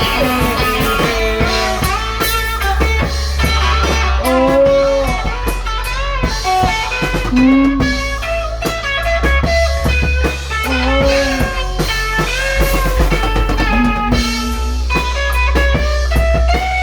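Instrumental break of a blues-rock song: a lead guitar playing bent, sliding notes over drums and bass.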